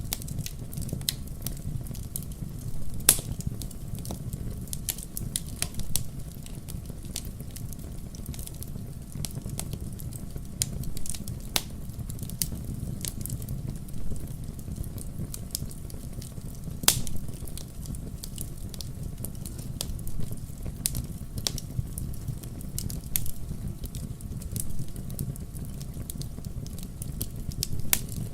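Wood fire in a fireplace crackling, with irregular sharp pops and snaps over a steady low rumble of the flames; two louder pops stand out, about 3 seconds and 17 seconds in.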